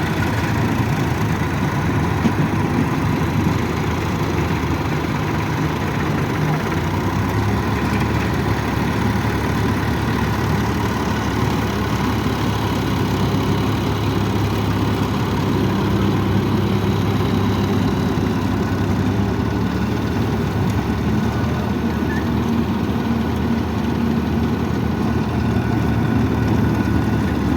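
Tractor diesel engine running steadily, its note shifting slightly a few times.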